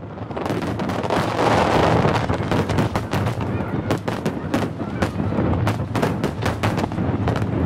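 Aerial fireworks display: a dense barrage of shell bursts, many sharp cracks and crackles over a constant low din, the cracks coming thicker in the second half.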